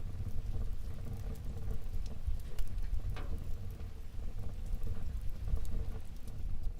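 Wood fire burning in a fireplace: a steady low rumble of the flames with scattered small crackles and one louder pop about three seconds in.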